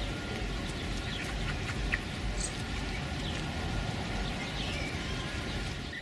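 Scattered short, high bird chirps, a few sliding down in pitch, over a steady low rumble.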